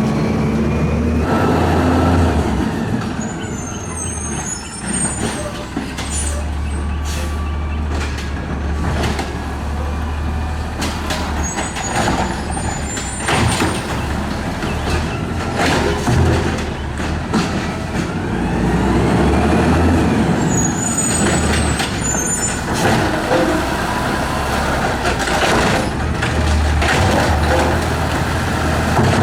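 Garbage truck at work: its engine running with a low rumble, a whine that rises and falls twice, and scattered sharp hisses and clanks.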